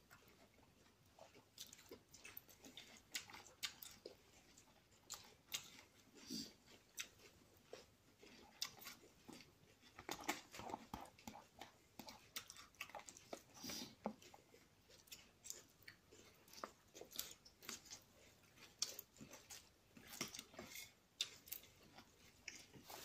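A person chewing mouthfuls of green salad close to the microphone: a run of many short, sharp mouth clicks and crunches. Now and then a fork scrapes and clicks in a glass bowl.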